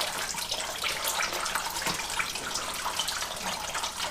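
Engine coolant draining out of a BMW E36's radiator tank, a steady pouring stream of liquid.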